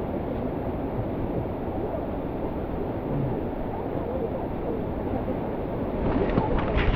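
Steady rushing roar of a waterfall and mountain stream. About six seconds in, a few short sharp knocks or clicks begin.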